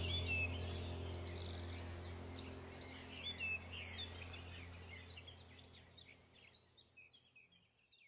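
Small birds chirping and twittering over a deep, steady low drone, the whole fading out toward the end.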